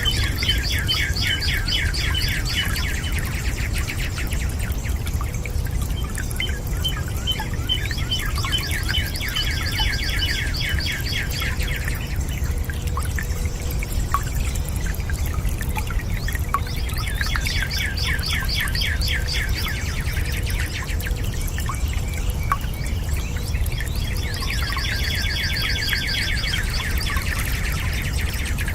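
A bird singing in rapid trills, four bouts of about three seconds each, roughly eight seconds apart, over a steady low rush of water, with a few faint drip-like ticks between the trills.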